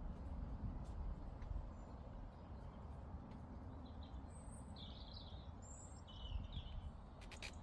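Meadow ambience: a steady low rumble of wind, a few short bird chirps in the middle, and a quick run of sharp clicks near the end.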